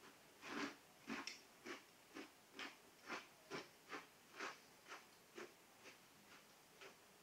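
A person chewing a mouthful of crunchy corn puff cereal in milk, with crisp crunches about twice a second that grow fainter toward the end.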